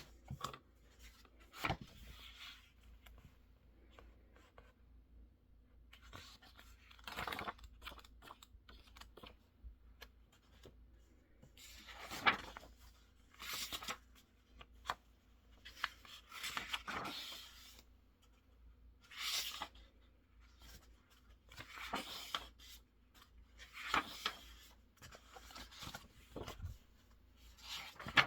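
Handwriting on paper: irregular bursts of short, scratchy strokes with a few light ticks in between.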